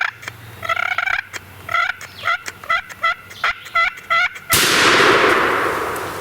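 A wild turkey calls in a run of short, sharp notes, about two a second. About four and a half seconds in, a shotgun fires one loud shot that echoes away slowly.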